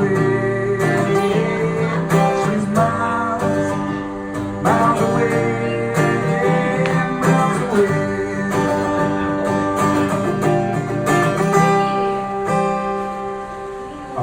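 Acoustic guitar playing the instrumental close of a song, chords strummed and ringing, dying away near the end.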